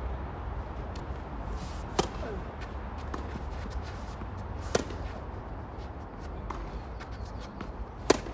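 A tennis ball struck by rackets three times, about three seconds apart, in a singles rally; the last hit is the loudest. Faint ticks and scuffs between the hits.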